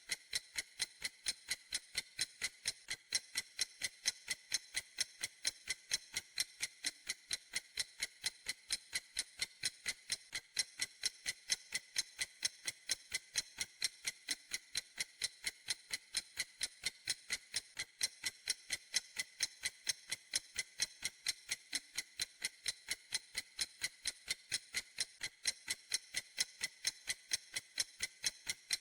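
Clock ticking steadily, with crisp, high, evenly spaced ticks several times a second.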